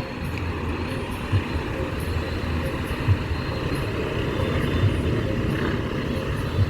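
Passing train, a steady loud rumble and rushing noise with a low thump about every second and a half to two seconds.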